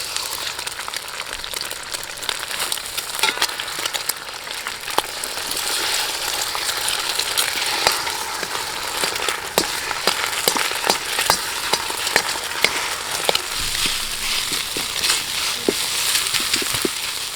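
Fried rice stir-frying in a hot Chinese wok over a campfire: a steady sizzle with frequent sharp clicks and knocks of a ladle working the rice against the wok.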